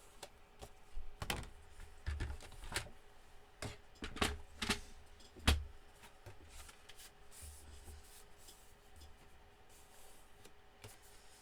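Card stock and craft tools being handled on a work table: a string of sharp taps and knocks with dull thuds over the first five seconds or so, then only light rustling.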